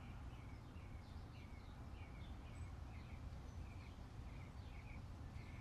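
Faint bird chirping, a quick run of short repeated chirps, over a low steady background hum.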